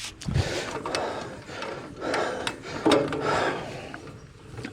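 Rough, gritty scraping broken by several sharp knocks: the wheel of a sawmill head being levered and lifted out of packed sawdust.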